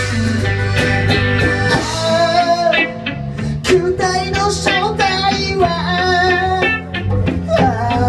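Live rock band music: guitar playing with a singing voice over a steady beat.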